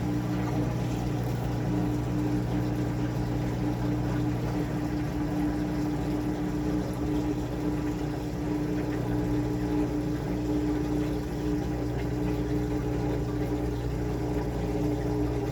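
Washing machine running, with a steady motor hum holding one pitch and no change throughout.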